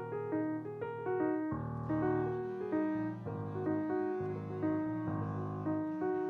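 Keyboard music: piano-like notes playing a melody over changing low chords.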